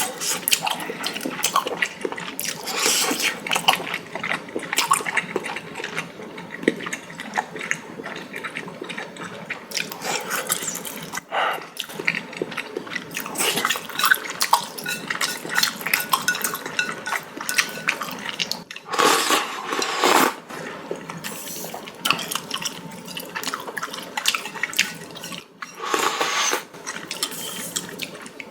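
A person eating noodle soup, slurping noodles and broth and chewing wetly, with a few longer, louder slurps.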